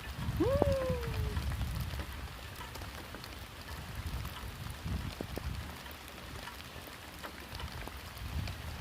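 Heavy rain falling steadily, with low rumbling buffets on the microphone that are strongest in the first couple of seconds. Near the start a short call rises and then slides down in pitch.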